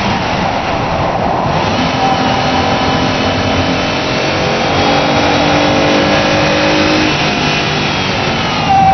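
Mazda Xedos 6's 2.0-litre V6 engine running hard at high revs under way on a race track, its note climbing in pitch from about four seconds in, over wind and road noise, with a step up in loudness near the end.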